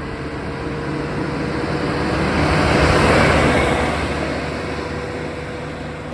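New Holland PowerStar 75 tractor's diesel engine running at full throttle in high gear, a steady drone with a held tone. A broad rushing noise swells and fades, loudest about three seconds in.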